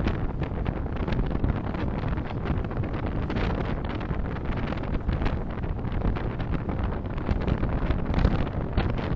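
Steady rumble of road and wind noise from a moving car, picked up by a dashcam microphone, with small uneven bumps in level and no distinct events.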